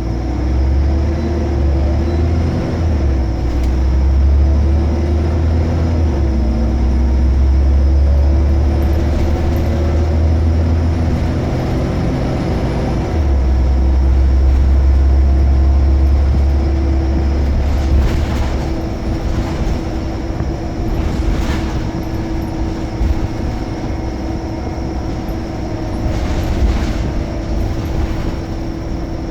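Scania L94UB Omnicity bus's five-cylinder diesel running under load with a deep drone. The drone eases off briefly about twelve seconds in and drops away around eighteen seconds, after which the bus runs more lightly. A steady whine sounds throughout, with a few clicks and rattles near the end.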